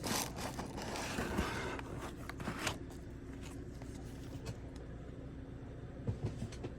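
Subscription-box packaging being handled: rustling and scraping for the first couple of seconds, with a few light clicks and knocks, then quieter handling.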